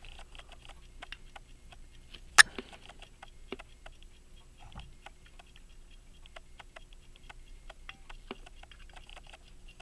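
Key-wound 18-size Illinois Springfield pocket watch ticking rapidly, several small ticks a second. One much louder sharp click comes about two and a half seconds in.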